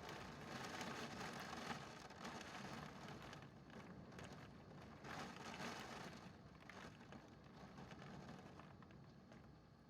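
Typhoon wind and rain as a steady, fairly faint rushing noise that swells in gusts, loudest in the first two seconds and again about five seconds in.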